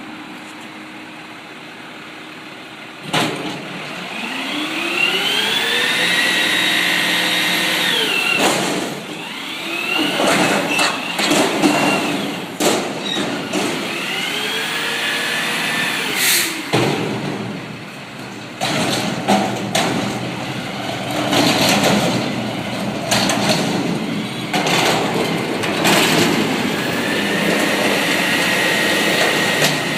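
Front-load garbage truck's diesel engine revving up and holding several times to drive the hydraulic lift arms, with a run of loud metal clanks and bangs in the middle as a dumpster is shaken out over the hopper.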